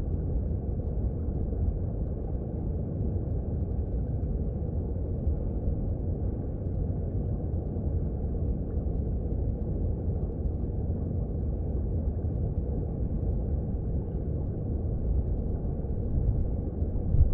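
Mountain stream recorded underwater: a steady, low, muffled rush of flowing water, swelling briefly near the end.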